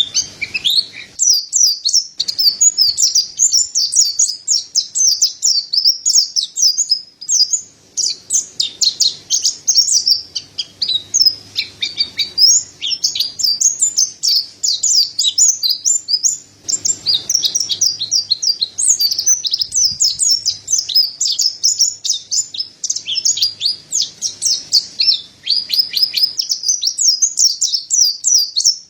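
Mountain white-eye (pleci dada putih, Zosterops montanus) singing: a fast, nearly unbroken stream of high chirps and twittering trills, with a couple of brief breaks.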